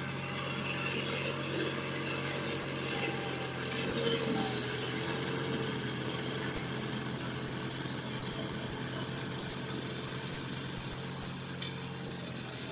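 Sears Suburban garden tractor with snowblower attachment, engine running steadily under load, with louder swells about a second in and again around four to five seconds in.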